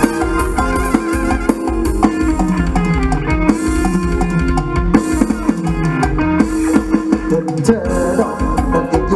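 Instrumental mor lam sing music: a fast, busy melody on an electric plucked-string instrument over electric bass and a drum kit keeping a steady, heavy beat.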